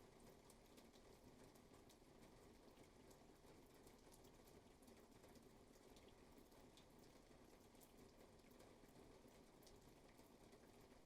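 Faint, steady rainfall: an even hiss with many individual drops ticking at irregular moments.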